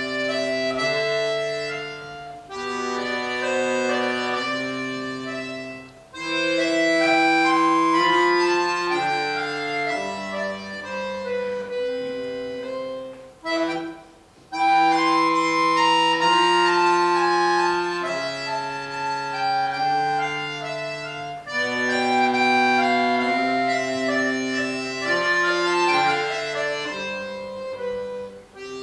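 Accordion playing a melody over sustained bass and chord notes, in phrases with brief breaks between them, the longest about halfway through.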